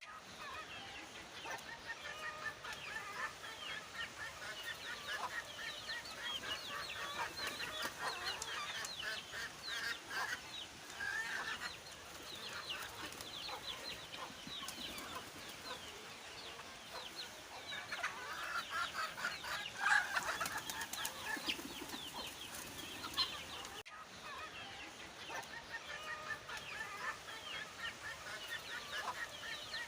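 A busy chorus of birds calling, with many short chirps and clucks overlapping and no break.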